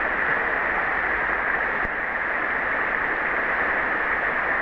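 River water flowing: a steady rushing hiss.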